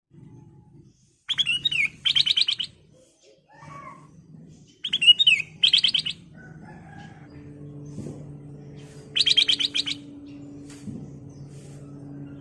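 Black-crested bulbul singing: three short phrases of rapid chattering notes, each about a second long, coming about a second and a half, five and nine seconds in. A faint low steady hum sits under the second half.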